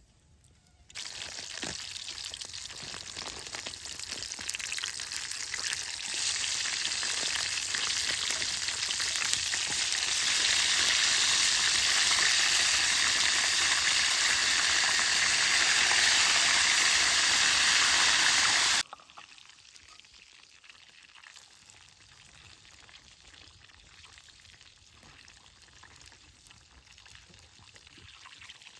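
Food frying in a hot pan: a steady sizzle that starts about a second in, grows louder in steps, and cuts off suddenly about two-thirds of the way through, leaving only faint sound.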